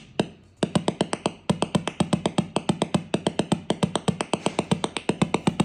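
Moxie robot's speaker clicking rapidly and evenly, about ten clicks a second: a speaker fault found in two units whose cause the owners don't know.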